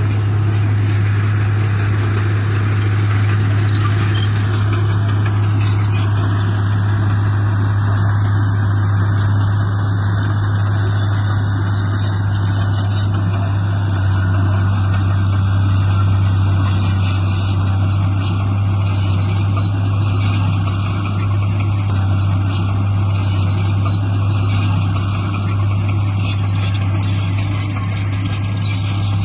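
Diesel engine of heavy earthmoving machinery running steadily with a deep, constant drone.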